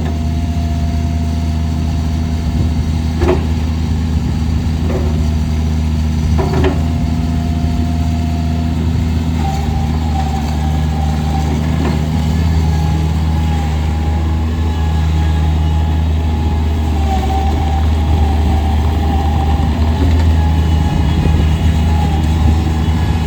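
Bobcat MT85 mini track loader's diesel engine running steadily, with a thin whine that steps up in pitch about nine seconds in. Three sharp knocks come in the first seven seconds.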